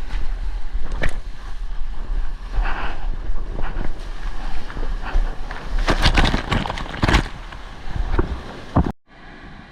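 Water splashing and wind buffeting against a GoPro action camera's microphone in the surf, with a steady low rumble and several sharper splashes about six to seven seconds in. The sound cuts off abruptly near the end.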